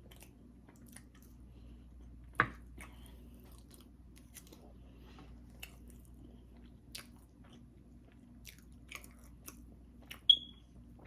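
Close-miked chewing of food, with small wet mouth clicks and smacks scattered throughout. A sharper click about two and a half seconds in and another near the end stand out.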